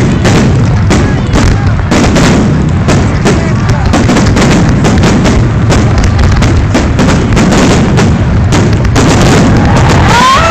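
Fireworks display: a dense barrage of firework explosions, rapid overlapping bangs with almost no let-up, very loud on the phone's microphone.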